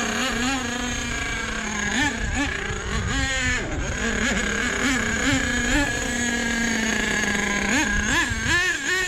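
Small nitro engine of an RC truck idling with a steady high-pitched buzz, blipped up in short revs several times, and again in three quick revs near the end.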